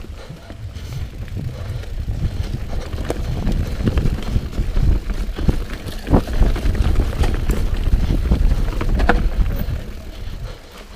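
A mountain bike ridden fast over rough, rocky trail: tyres on dirt and rock, with sharp knocks and rattles from the bike, under wind buffeting the microphone. It builds over the first couple of seconds and eases off near the end.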